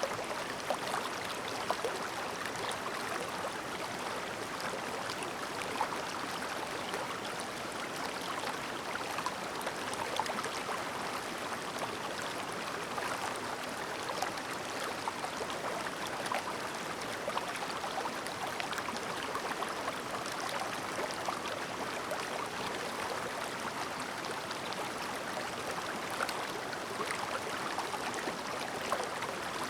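A clear shallow mountain stream burbling and splashing steadily over rocks, a continuous babble of running water with small quick splashes throughout.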